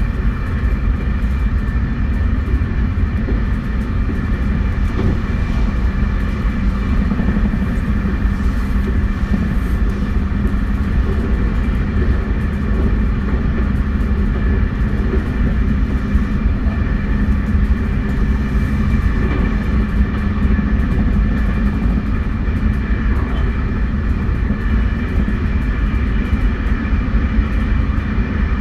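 JR West 271 series electric train running at a steady speed, heard from inside the car: a continuous rumble of wheels on rail with a steady high whine from the Hitachi SiC inverter-driven traction motors.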